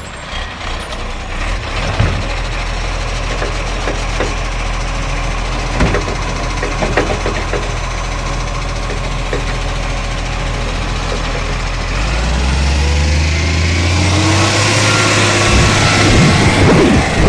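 Garbage truck's diesel engine running steadily with occasional knocks, then its engine speed steps up about twelve seconds in. Near the end a louder hissing, clattering stretch joins it.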